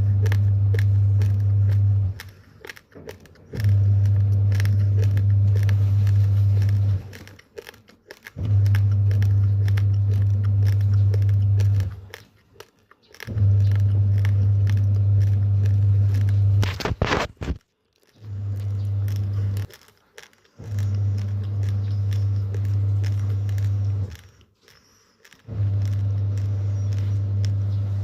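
Uncooked rice grains being crunched and chewed close to the microphone, in bouts of a few seconds separated by short pauses. A steady low hum runs under each bout, and there is one louder crunch about 17 seconds in.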